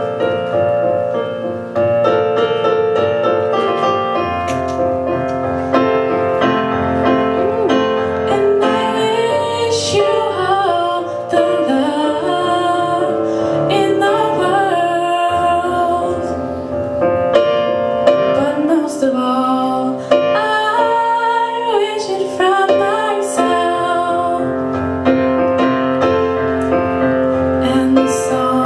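Piano playing a song, with a female voice singing the melody over it from about nine seconds in.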